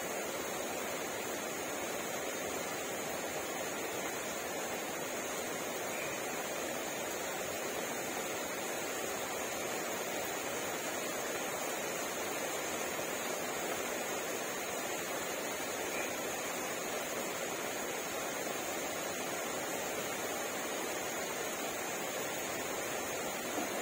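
Steady rain falling, an even hiss, with now and then a single louder drop ticking.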